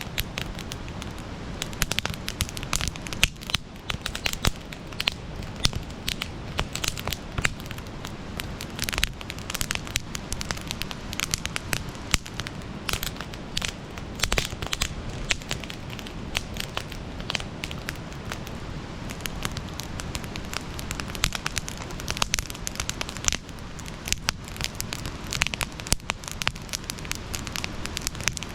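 Campfire burning, crackling and popping with many sharp snaps at uneven intervals over a steady low rush of the flames.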